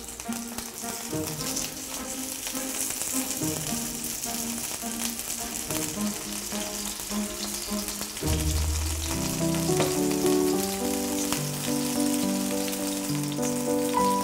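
Frozen Korean dumplings (mandu) sizzling steadily as they pan-fry in oil, with background music that grows louder about eight seconds in.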